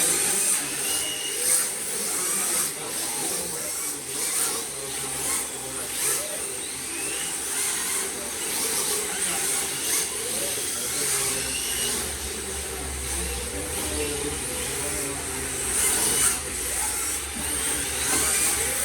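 Electric RC drift cars running: high-pitched motor whines rising and falling in pitch as they throttle on and off, over tyre scrub and occasional light clicks. A low hum comes in about twelve seconds in and fades after about four seconds.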